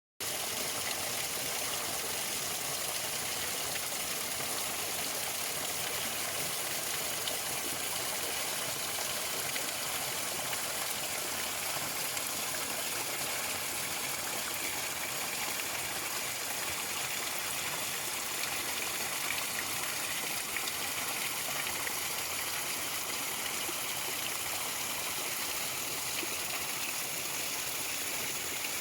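Waterfall in the dry season: water falling and running over rocks in a steady, unchanging rush, mostly high-pitched.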